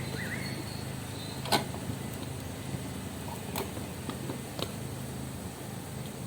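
Knocks and clicks of wooden hive parts being handled: three sharp ones, the loudest about a second and a half in, over a steady low hum. A bird chirps briefly at the start.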